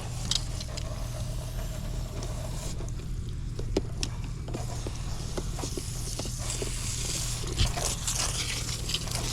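Steady low mechanical hum with scattered light clicks and scrapes.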